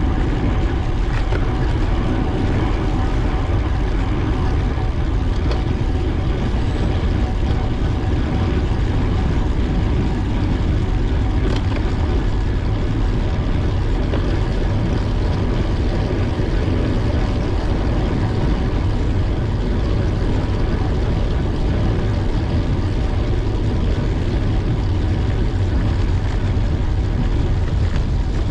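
Steady, unbroken rumble of wind and road noise from travelling at speed, heaviest in the low end, with a few faint steady tones running through it.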